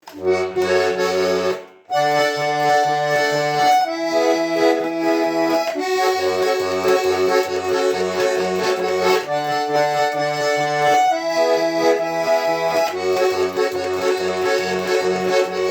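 Garmon (Russian button accordion) playing an instrumental introduction: a melody in held notes over a steady pulsing bass-and-chord accompaniment, with a brief break about two seconds in.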